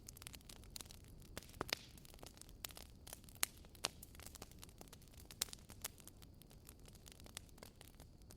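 Wood fire crackling in a fireplace: irregular sharp snaps and pops, some louder than others, over a faint low rumble.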